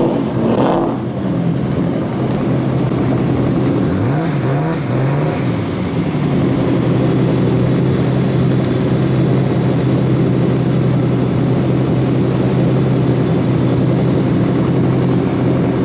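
A car engine running steadily, with a quick rev that falls and rises again about four seconds in.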